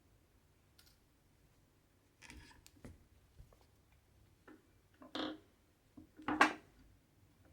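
Needle and cotton thread being drawn through cross-stitch fabric: a few short swishes with small clicks, the loudest near the end.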